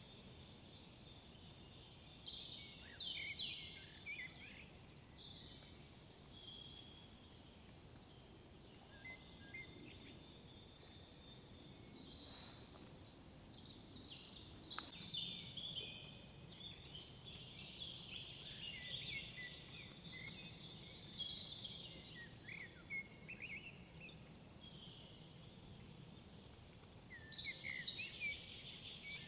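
Several songbirds singing in woodland: short, varied song phrases and high, quick trills come and go every few seconds, over a faint steady background hiss.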